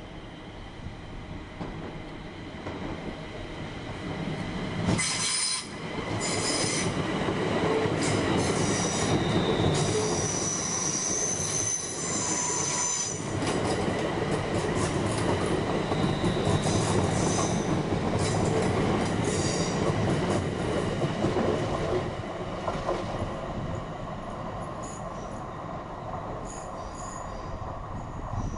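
A train running over the rails at low speed, its wheels rumbling. Shrill, high-pitched squeals start about five seconds in and come and go for roughly fifteen seconds, with fainter squeals near the end.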